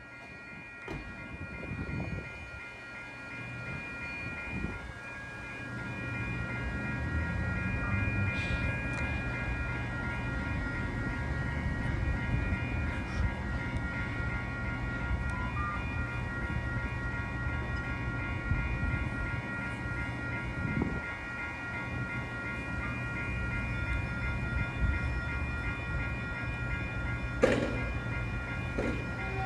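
Caltrain electric passenger train set pulling into the station and standing at the platform. Its low hum and rumble grow louder a few seconds in, with several steady high ringing tones and a sharp sound near the end.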